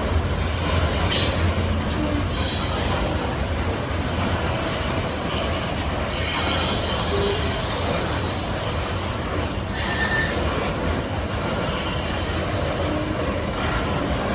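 Freight cars of a BNSF coal train rolling past: a steady, loud rumble of steel wheels on rail, with high-pitched wheel squeal coming and going several times.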